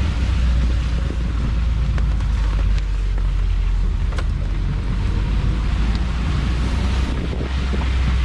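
Open-top Moke on the move: a steady low engine and road rumble, with wind buffeting the microphone.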